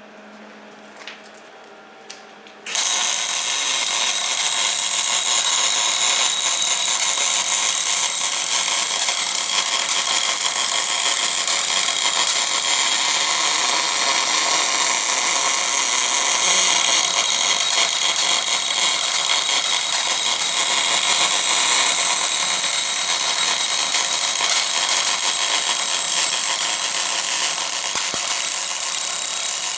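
MIG welding arc on an orbital bore-welding machine, laying a bead as the torch rotates. It strikes suddenly about three seconds in, after a couple of small clicks, then runs as a steady hiss.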